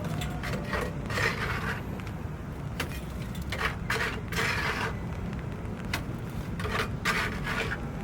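Repeated short scraping strokes, about eight in all and irregularly spaced, over a steady low rumble.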